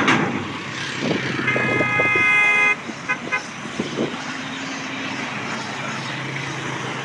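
A vehicle horn blares for about a second and cuts off, followed by two quick short toots, over steady roadway traffic noise; a low engine hum runs under the second half.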